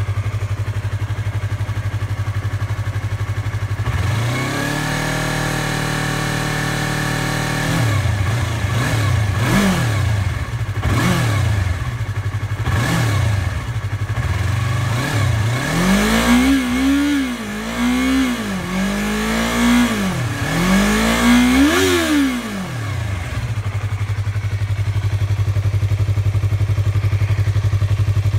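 2015 Yamaha YZF-R3's parallel-twin engine through its stock exhaust: idling, then held at raised revs for about four seconds, blipped several times, and revved higher in about five quick rises and falls before settling back to idle.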